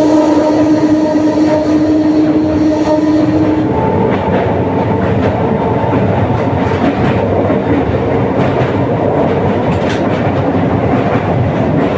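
Electric multiple unit (EMU) local passenger train running on the track, its wheels clattering over the rails. Steady humming tones run through the first few seconds, and a higher one takes over for a couple of seconds after that.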